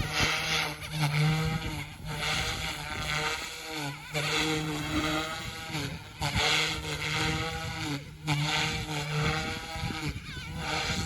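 OMP Hobby M2 Evo electric RC helicopter in flight, its motor and rotor whine rising and falling in pitch every couple of seconds as it manoeuvres. Wind buffets the microphone throughout.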